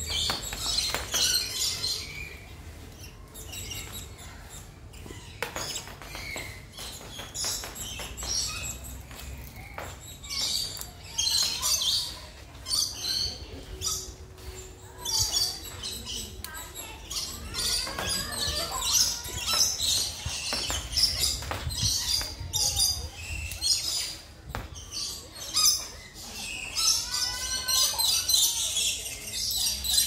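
Small birds chirping and twittering in repeated high-pitched bursts.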